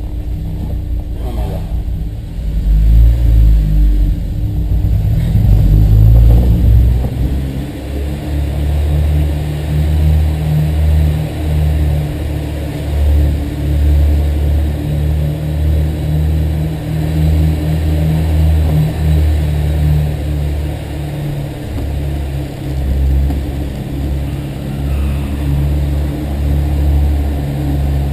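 Honda S2000's four-cylinder engine running as the car is driven slowly, with new spark plugs fitted and a misfire still in question. The running is louder and deeper for a few seconds near the start, then settles into an uneven, steadier hum.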